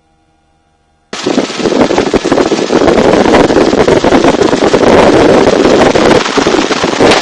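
Loud helicopter cabin noise with wind buffeting the microphone through the open door, starting abruptly about a second in after a moment of near silence.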